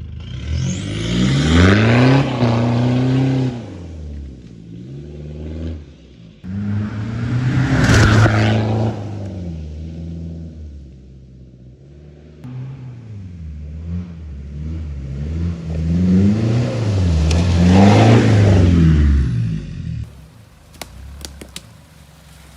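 Toyota Prado 150's 3.0-litre four-cylinder turbodiesel through a straight-pipe exhaust, revved up three times and falling back between revs. A few sharp clicks come near the end.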